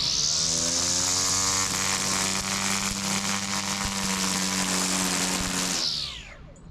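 String trimmer motor spinning up as the trigger is pulled, running steadily for about six seconds, then winding down as it is released near the end.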